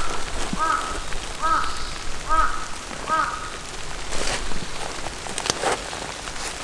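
Rain pattering steadily. In the first three seconds a bird calls five times, evenly spaced a little under a second apart, each call a short arched note. A few sharp ticks follow later.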